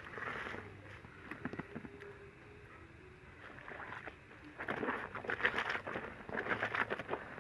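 Clothes being washed by hand in a bowl of soapy water: wet fabric rubbed and sloshed, with splashing that gets louder about halfway through.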